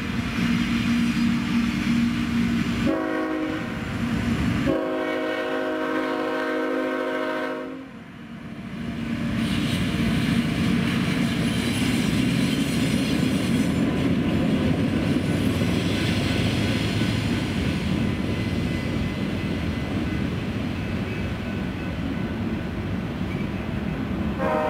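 Freight train diesel locomotives sounding their air horn for the grade crossing: a short blast about three seconds in, then a longer one of about three seconds. After that, the locomotives and a string of tank cars and covered hoppers roll through the crossing with a steady rumble and wheel clatter.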